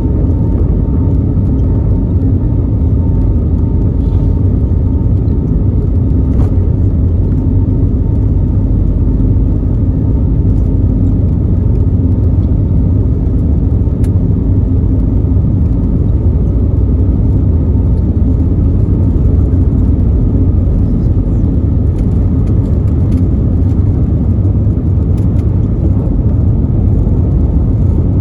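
Steady low rumble of an Airbus A320neo's CFM LEAP-1A engines and airflow, heard from inside the passenger cabin, unchanging throughout.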